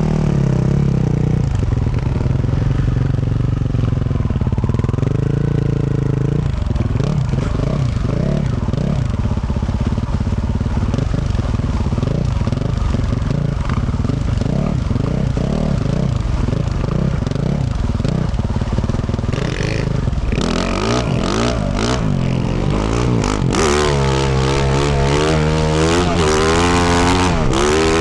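2024 Yamaha YZ450F's single-cylinder four-stroke engine through a Yoshimura RS-12 exhaust, revs rising and falling as it is ridden. From about two-thirds of the way in, rapid clattering knocks come through, and the revs swing harder near the end.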